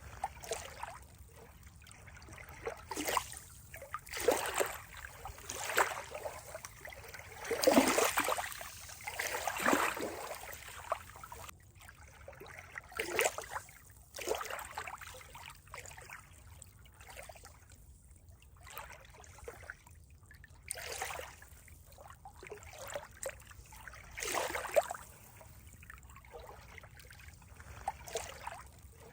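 Water trickling and splashing in uneven bursts every second or two, the loudest about eight seconds in.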